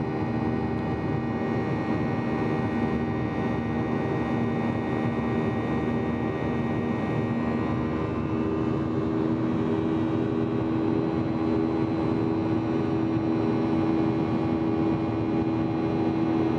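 Steady cabin drone of a Boeing 737-800 from inside the passenger cabin: the CFM56-7B jet engines' hum with several steady tones over airflow noise, one low tone growing stronger about halfway through.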